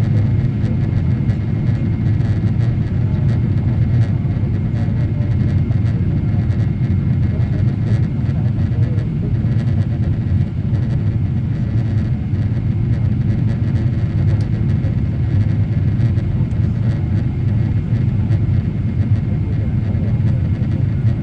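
Steady low rumble of a Boeing 777-300ER's engines and airflow heard inside the cabin on approach, with a faint thin steady tone above it.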